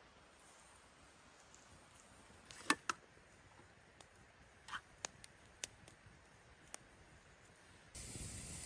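A few scattered sharp clicks and snaps, the loudest pair about three seconds in, over a faint steady hiss. Near the end a louder steady noise comes in suddenly.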